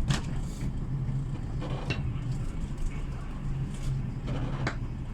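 Steady low drone of a train running, with a few sharp clicks or knocks over it.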